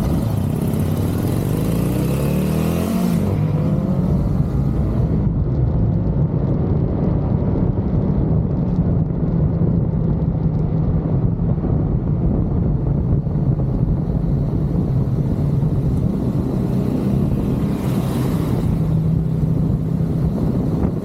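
1985 BMW K100 motorcycle engine running at road speed, picking up revs over the first three seconds and then holding a steady cruise. Wind rushes over the microphone at the start and again briefly near the end.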